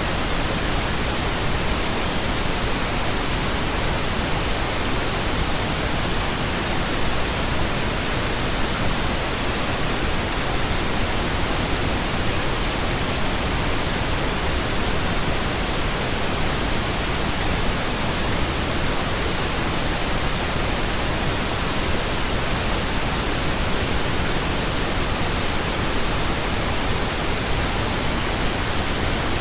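Pink noise, a steady even hiss spread across all pitches with no changes.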